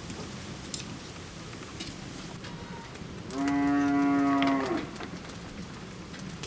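A cow mooing once, a single steady call lasting about a second and a half, starting about three seconds in.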